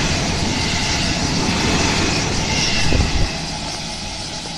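Electric multiple-unit rapid train passing through the station at speed close by: a loud, steady rush of wheels on rail and air around the cars. A last heavy thump comes about three seconds in as the tail clears, and then it quickly fades.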